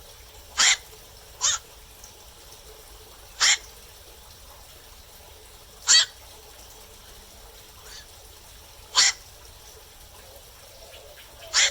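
Black-crowned night herons giving short, harsh single "kwok" calls at night, six in all, one every one to three seconds.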